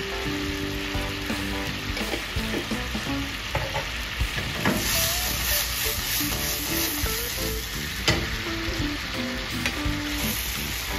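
Whole prawns sizzling in a garlic, butter and honey sauce in a stainless steel pan while a wooden spatula stirs them; the sizzle turns louder about halfway through, with a few knocks of the spatula against the pan, the sharpest about eight seconds in.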